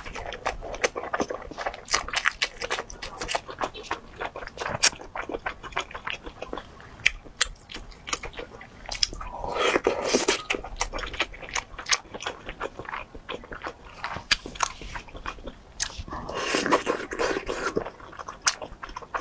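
Close-miked chewing and crunching of a fried crispy-cartilage skewer: many small sharp crunches and mouth clicks, with denser, louder crunching about ten seconds in and again near the end.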